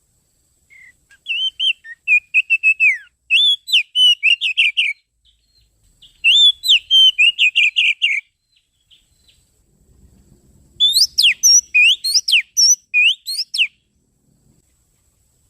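Oriental magpie-robin (kacer) song: three bouts of rapid, sweeping whistled notes and trills, with short pauses between the bouts.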